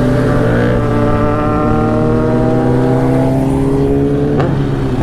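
Motorcycle engine pulling under steady throttle, its pitch rising slowly as it gains speed, with a brief change in the engine note about four and a half seconds in.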